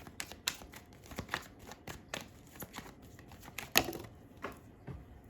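Tarot cards being shuffled and handled: a run of soft clicks and rustles, with one sharper snap of a card nearly four seconds in.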